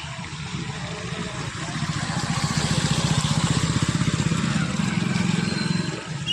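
A motor vehicle engine passing close, its fast low pulsing getting louder over a few seconds and easing off near the end, over a steady hiss.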